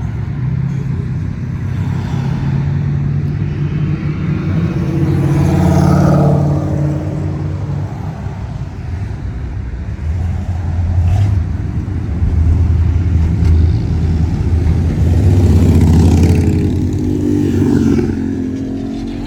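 Classic car engines cruising past with a low exhaust note, swelling loudest about six seconds in and again around sixteen seconds as cars go by.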